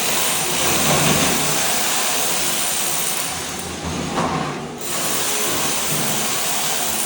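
Ride-on floor scraper scraping thin-set mortar off a concrete slab: a loud, steady, noisy grind, which thins out briefly about four and a half seconds in.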